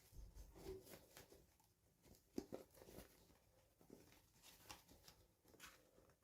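Near silence with faint scattered clicks and rustles of small plastic toys and packaging being handled, one sharper click about two and a half seconds in.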